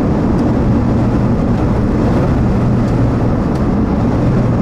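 Steady, loud low rumble of a vehicle on the move in extreme wind: wind and road noise mixed with a low hum, with a few faint ticks.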